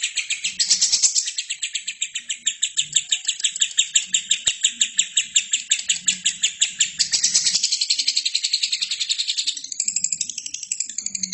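Albino lovebird singing: a long, fast run of repeated high chirps, about eight a second, turning into a more varied warble near the end.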